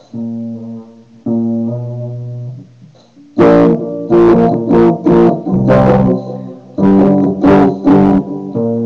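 Guitar power chords: two chords let ring, then about halfway in a run of about nine hard, loud strummed chords in a rhythm, and one more chord let ring near the end.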